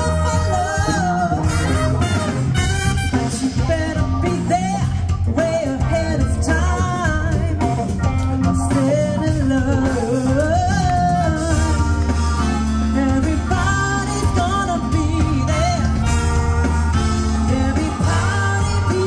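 A live band playing a song with a singer, whose melody wavers over a steady, strong bass line and guitar.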